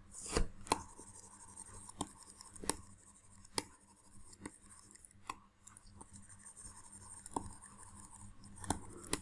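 Irregular sharp clicks and faint scratching of a stylus on a pen tablet, about nine clicks spread unevenly, over a faint steady hiss.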